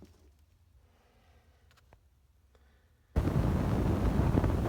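Near silence, then about three seconds in a sudden loud, rough rumbling noise starts and keeps going.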